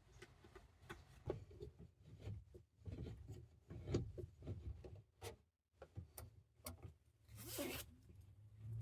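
Handling noises: a run of soft clicks, knocks and rustles, with one longer scrape about half a second long near the end.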